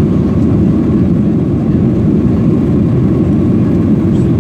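Steady, loud roar of a Boeing 737-800's CFM56 jet engines at takeoff power, heard from inside the passenger cabin.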